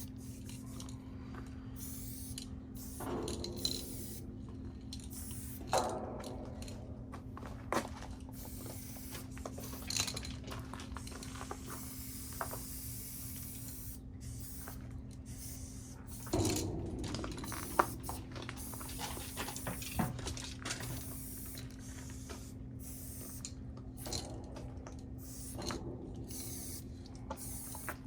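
Aerosol spray-paint cans hissing in short separate bursts every few seconds, the longest about 16 seconds in, with scattered sharp clicks and knocks. A steady low hum runs underneath.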